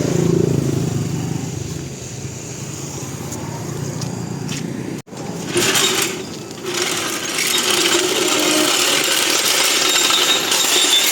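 Small engine running, most likely a motorbike being ridden. The engine hum is clearest in the first few seconds. After a brief drop-out about five seconds in, louder wind and road noise takes over.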